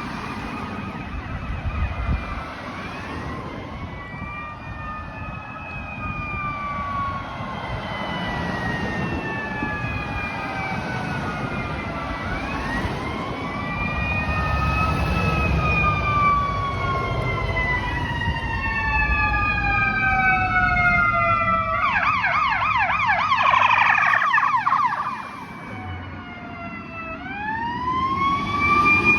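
Sirens of two fire apparatus, a fire engine and a ladder truck, sounding together: several slow rising-and-falling wails overlap. About 22 seconds in, a fast yelp cuts in for a few seconds, then a wail rises again near the end.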